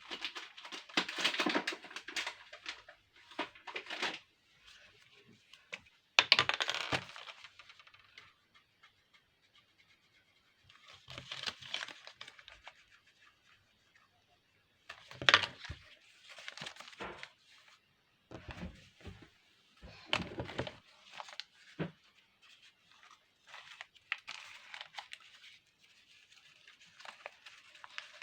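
Intermittent crackling and tearing sounds of craft material being handled and worked by hand, in irregular bursts with short pauses between them.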